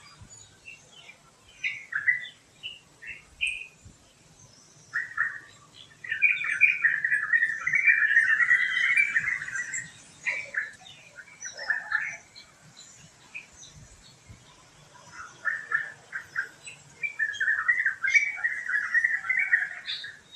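Birds chirping and singing: scattered short chirps, with two long runs of fast, rapidly repeated song notes, one lasting about four seconds from about six seconds in and another near the end.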